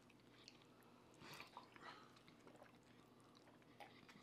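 Near silence, with a few faint chewing and eating noises about a second in and again about two seconds in.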